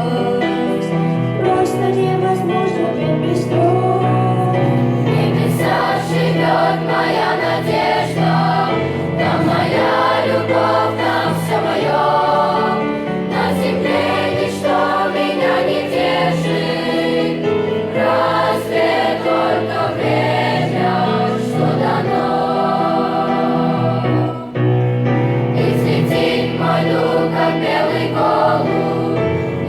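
Children's choir singing a Russian-language hymn.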